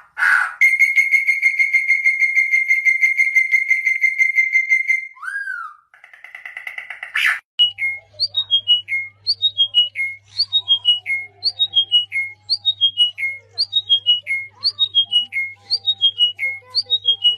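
Birds singing: a fast trill held on one high pitch for about four seconds, then, after a short break, a quick phrase of falling notes repeated about once a second, over a faint steady low hum.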